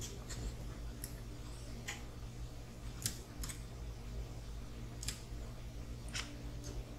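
Light, irregular clicks of small plastic and metal RC car kit parts being handled and fitted, about seven over several seconds, over a steady low hum.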